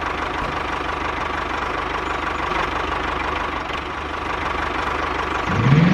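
Mini tractor's small engine running steadily with a fast, even knocking beat. Near the end a rising whine comes in and the sound grows louder.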